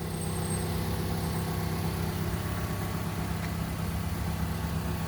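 2009 Nissan Rogue's 2.5-litre four-cylinder engine idling with a steady hum, along with the light tapping from behind the dashboard that the owner traced to a connector behind the glove compartment.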